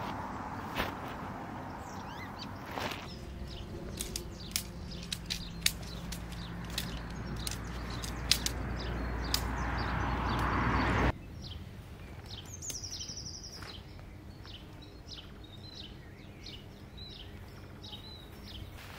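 Birds chirping and calling outdoors. A rushing background noise with a low hum builds up over the first eleven seconds and cuts off abruptly, leaving quieter birdsong.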